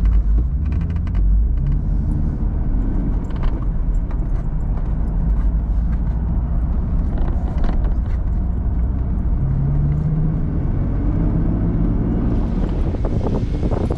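A motor vehicle driving, its engine running with a steady low rumble, with scattered clicks and rattles throughout.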